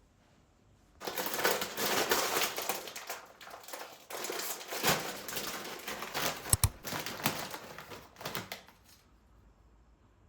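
Packaging crinkling and rustling as it is handled. It starts about a second in and stops near the end, with a couple of sharp knocks about two-thirds of the way through.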